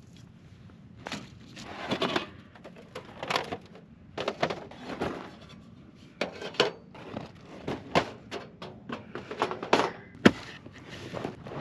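A portable fire pit being handled and set up: irregular clunks and scrapes, with about a dozen sharp knocks spread unevenly through the stretch.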